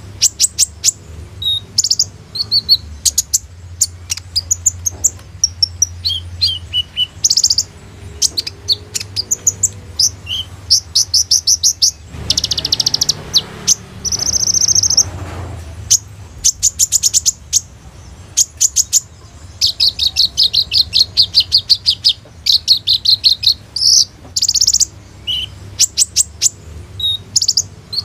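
Kolibri ninja sunbird singing a fast, varied song of sharp high chips and rapid trills, in quick runs with short gaps. About halfway through there is a harsher, noisier passage.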